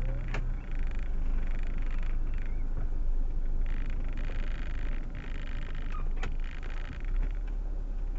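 Proton Waja's cabin with a steady low rumble, patches of higher noise coming and going, and two sharp clicks, one at the start and one about six seconds in.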